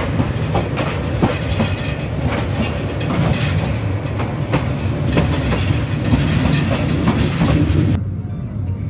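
Passenger train running, with a steady low rumble and wheels clicking irregularly over the rail joints. About eight seconds in the sound cuts off abruptly to a duller, quieter one.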